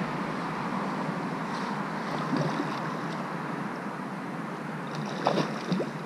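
Steady noise of rain and blustery wind, with a few sharp taps about two seconds in and twice near the end.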